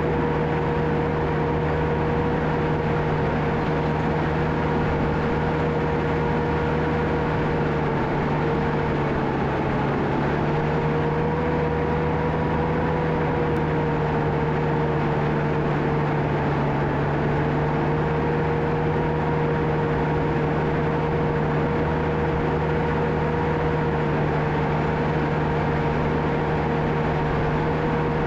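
John Deere 650K crawler dozer's diesel engine running steadily under work, with a constant hum. Its pitch sags briefly about nine seconds in, then recovers.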